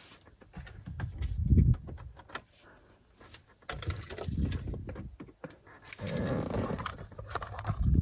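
Handling noise: a run of irregular clicks and light rattles, with a few low thumps and rustles, strongest about one and a half seconds in and again near the end.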